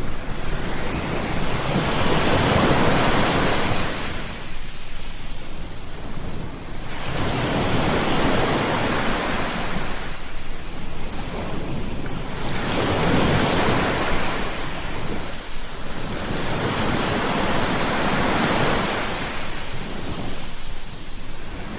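Sea waves breaking and washing on a shore, the surf swelling and falling back in slow surges about every five seconds.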